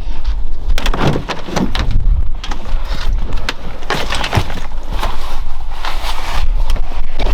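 Vehicle on the move: a steady low rumble of road and wind noise, with repeated knocks and rattles, the loudest about a second and a half and four and a half seconds in.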